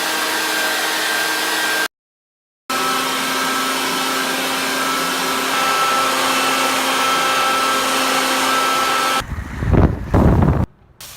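Loud, steady whooshing blower noise with a motor's thin whine running through it, broken by two abrupt cuts. Near the end it gives way to heavy low rumbling gusts, like wind buffeting the microphone, before dropping away.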